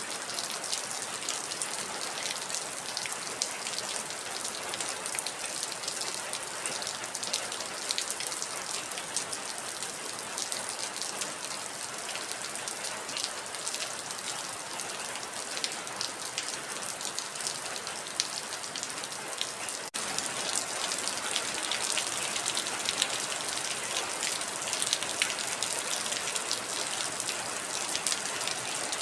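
Heavy rain falling: a steady hiss thick with the patter of individual drops. About two-thirds of the way through it dips for an instant and then carries on a little louder.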